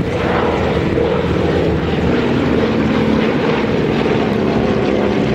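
Radial piston engines of propeller-driven warbird trainers (a Harvard T6, Winjeel and Nanchang CJ6 formation) droning steadily in flight, the pitch drifting slowly as they move.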